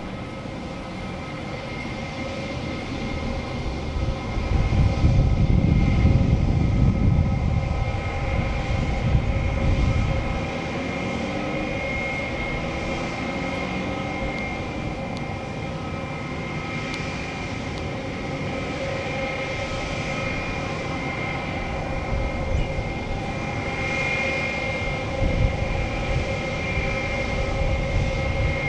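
Airbus A319-132 jet engines (IAE V2500) running with a steady whine. A heavy rumble swells about four seconds in and eases off around ten seconds, with a smaller rise in rumble near the end.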